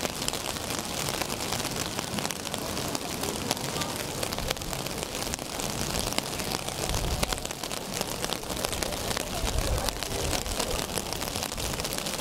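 Rain falling on a city street at night: a steady patter thick with sharp drop ticks, with a low rumble swelling around seven seconds in and again near ten seconds.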